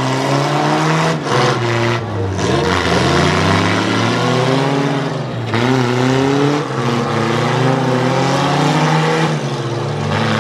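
Several demolition-derby trucks, SUVs and minivans running their engines at once, revving up and down in pitch as they manoeuvre in the arena.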